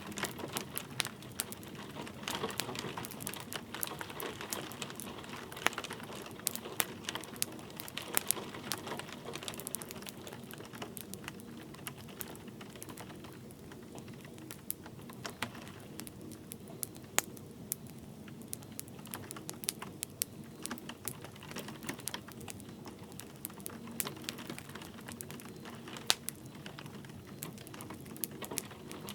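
A wood fire crackling, with frequent irregular sharp pops and snaps, over a steady patter of light rain.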